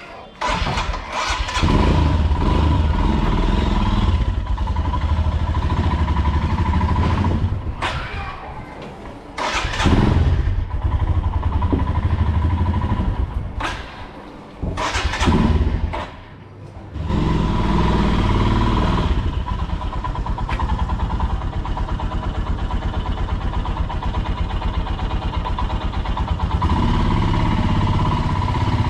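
Motorcycle engine running on a ride, loud and low, picking up sharply about half a second in. The throttle eases off and opens again several times, with the engine dropping low around the middle before running steadily through the second half.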